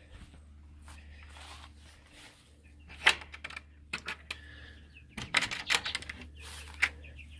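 Quick runs of sharp clicks and rattles, one cluster about three seconds in and a longer one about five seconds in, over a steady low hum.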